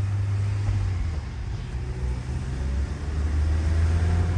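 Car engine and road noise heard from inside the cabin while driving: a steady low drone that eases off a little about a second in and builds again toward the end.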